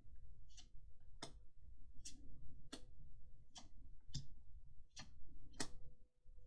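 A series of sharp clicks, about one every three quarters of a second, in a small room, over a faint steady hum.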